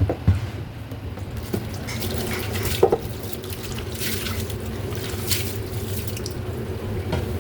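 Wet sloshing and squelching of raw stingray meat being kneaded by hand in vinegar to strip its slime and fishy smell, in irregular handfuls.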